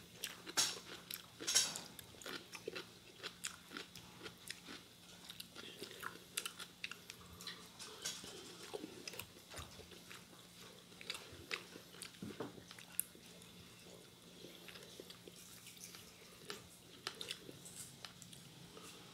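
A person chewing and biting food close to the microphone, with crisp crunches and wet mouth clicks; the loudest crunches come about half a second and a second and a half in. A faint steady hum runs underneath.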